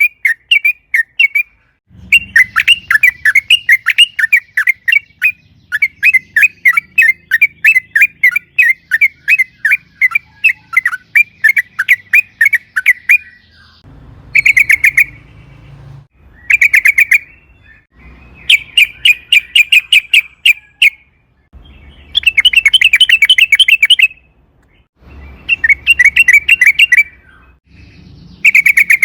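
Yellow-vented bulbul (trucukan) singing fast chattering runs of short, bright chirps. The first run is long, lasting about eleven seconds, and is followed by several shorter bursts a second or two apart.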